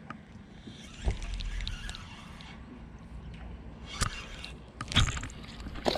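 Aluminum fishing boat on open water: a few sharp knocks on the hull, about four over the stretch, over a steady low rumble and some water noise.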